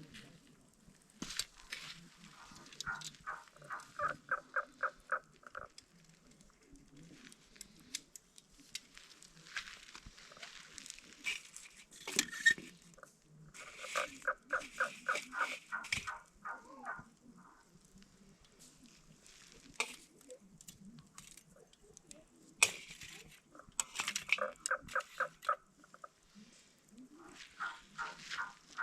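An animal calling in runs of rapid, evenly spaced notes, about five a second, each run lasting two to three seconds and repeating several times, with scattered sharp crackles in between.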